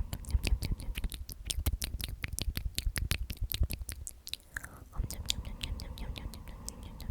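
Close-miked whispered "omnomnom" repeated rapidly, full of wet mouth clicks and lip smacks, with a brief lull about four and a half seconds in.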